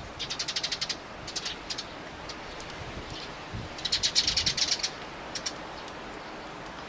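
Eurasian tree sparrows chattering in two quick runs of short, high chirps, over a steady rush of strong wind.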